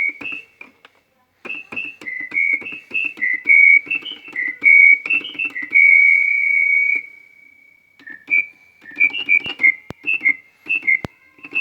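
Keyboard synthesizer playing a "pito grillo" whistle patch: a high, whistle-like lead melody in short hopping notes, with one long held note about six seconds in and a short break before the phrases resume.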